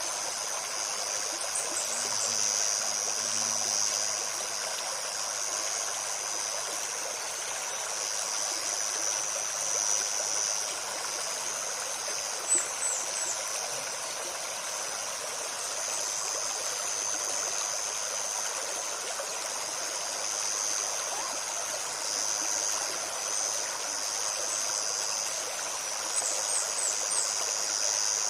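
Shallow forest stream babbling steadily over stones, with a continuous high-pitched insect drone above it and a few brief high bird chirps near the start, midway and near the end.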